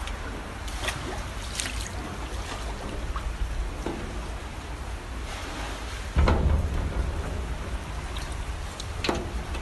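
Rain and floodwater: a steady hiss with a low rumble under it and scattered small splashes, the rumble swelling louder about six seconds in.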